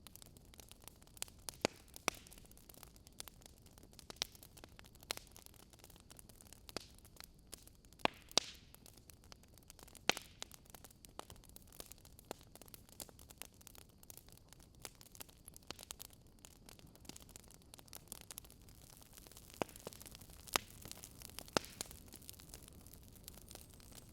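Wood fire burning in a fireplace: a soft hiss with irregular crackles and pops, a few of them sharper, about 8 and 10 seconds in and twice more near the end.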